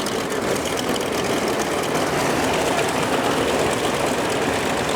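Propeller aircraft piston engine running steadily, a continuous even engine noise.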